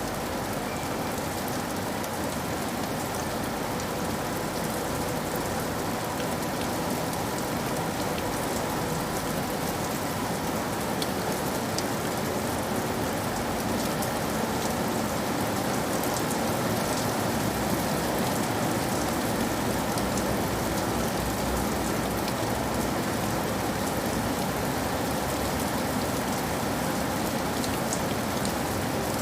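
Steady rain falling, with the patter of individual drops on a surface.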